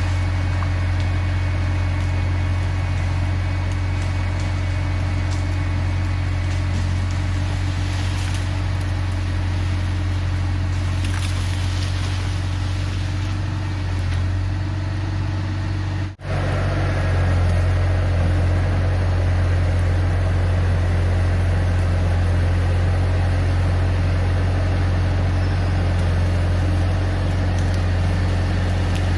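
Diesel engine of a Bobcat T250 skid-steer running steadily with a low, even drone. The sound drops out for an instant about sixteen seconds in, then resumes a little louder.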